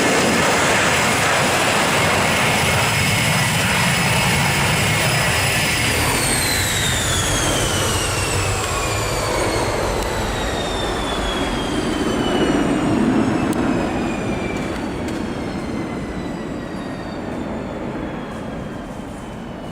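Airbus A318's Pratt & Whitney PW6000 jet engines at takeoff power as the airliner passes. The steady high engine whine starts to drop in pitch about six seconds in and keeps falling as the aircraft moves away.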